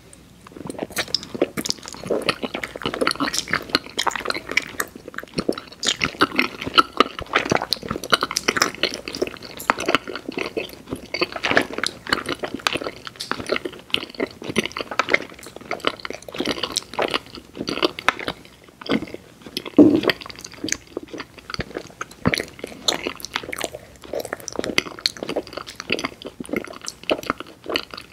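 A person chewing candy close to the microphone: a dense, irregular run of small wet clicks and crunches, with one louder bite about twenty seconds in.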